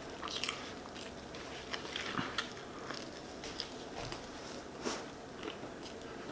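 Person chewing a mouthful of shrimp po' boy sandwich: faint scattered mouth clicks and soft smacks.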